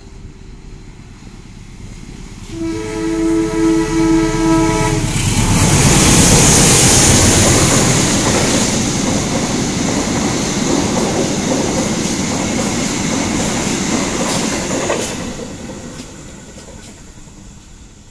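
Passenger train hauled by a diesel locomotive sounds its horn for about two and a half seconds as it approaches. It then runs through the station, a loud rush of wheels on rails and carriages for about ten seconds that fades as the last car goes by.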